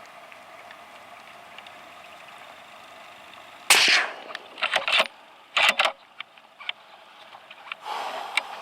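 Steady rain hiss, then a single sudden rifle shot at a roe deer just over a third of the way in. Two shorter bursts of sharp clacks follow about a second and two seconds later.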